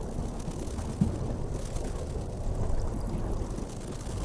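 Low, steady rumbling water noise, with a brief thump about a second in.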